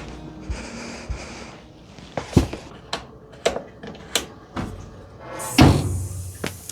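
A run of sharp household knocks and clunks, about eight of them at irregular spacing, like cupboard doors and objects being handled. Near the end comes a loud rushing burst that settles into a steady hiss.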